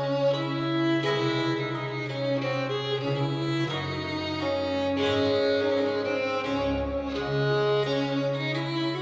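Instrumental music with bowed strings, violin and cello, playing long sustained notes over a held low bass line that moves to new notes a few times.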